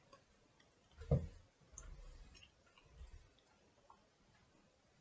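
Faint mouth sounds of someone chewing a bite of dense chocolate cake with the mouth closed, with a soft thump about a second in and a few small clicks.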